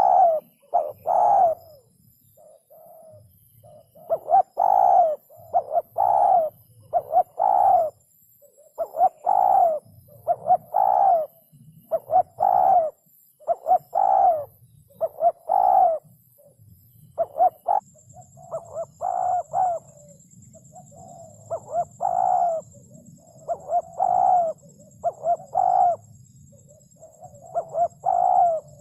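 Spotted dove cooing: short phrases of two or three low, hooting coo notes, repeated over and over with brief pauses between.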